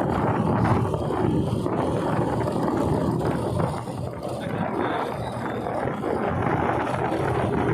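Steady wind and road noise from a moving motorcycle, the wind rushing over the microphone.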